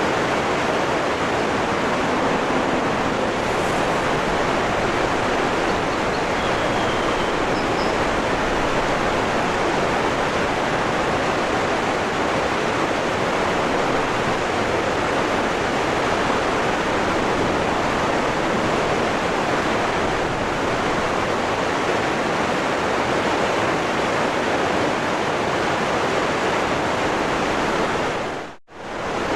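Waterfall rushing steadily, an even wash of water noise. Near the end it fades out to near silence for a moment and straight back in.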